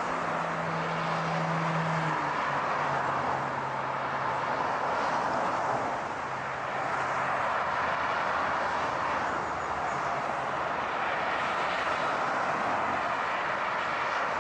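Steady road and tyre noise of a car driving along, with a low hum that drops in pitch about two seconds in and then fades away.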